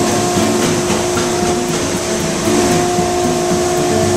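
Air Wash 300 oat-cleaning aspirator running under load with oats flowing through it: a steady, loud rush of its fan with a constant hum.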